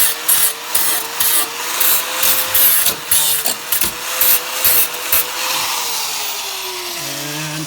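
Handheld power tool working sheet metal: a steady motor whine with repeated gritty strokes, about two or three a second, as it is pressed to the metal. About six seconds in it is let off and the whine falls in pitch as it spins down.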